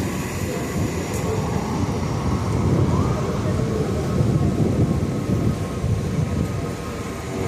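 Subway train rumbling steadily along the track, a continuous low rumble.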